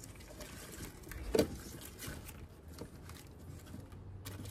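Hands handling potted plants: soft rustling and small clicks, with one sharper knock about a second and a half in.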